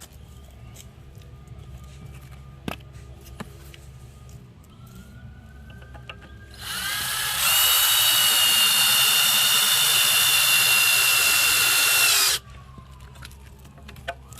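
Power drill working into 2x4 lumber at a corner joint, pilot-drilling or driving a screw. A few light handling clicks come first. About six and a half seconds in, the drill spins up and runs at a steady high whine for about five seconds, then cuts off and winds down in a falling tone.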